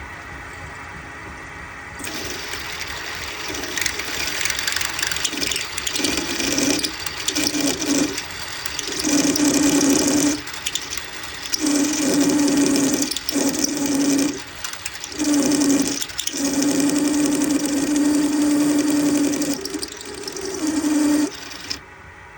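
Lathe running with a twist drill for a 1/4 inch tap cutting into a small engine cylinder cap, fed in and backed out in about six spells, each cut carrying a steady low squeal over the machine noise. The machine stops suddenly near the end.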